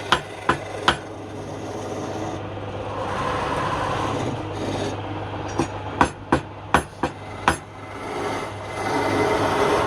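Wood lathe running with a steady hum while a turning tool scrapes and cuts the spinning wood. There are sharp knocks: three near the start and a quick run of about six between five and a half and seven and a half seconds in.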